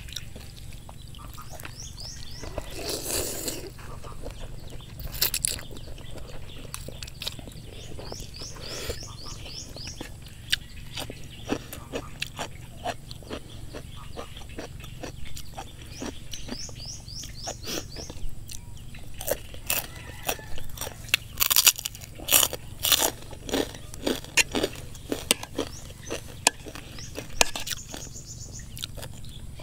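Close-up chewing and crunching of crisp food (raw bitter gourd and pork rinds with rice noodles), with a run of loud crunchy bites about two-thirds of the way through. A bird calls in quick high trills in the background, four times.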